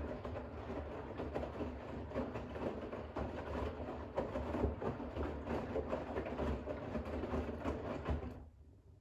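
Bosch WAX32GH1 front-loading washing machine tumbling a load of towels during a rinse: wet towels sloshing and flopping in the rinse water over the low hum of the drum motor. The drum stops about eight seconds in.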